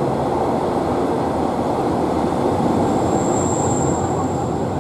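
Interior running noise of a Class 142 'Pacer' diesel multiple unit under way: a steady rumble from the underfloor diesel engine and the wheels on the rails, heard inside the carriage. A thin high squeal comes in about three seconds in and lasts over a second.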